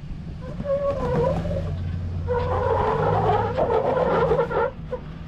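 Ram 1500 pickup's engine running under load as it crawls up a rock ledge. Over it come two spells of squealing and scraping, typical of tyres scrubbing on the rock.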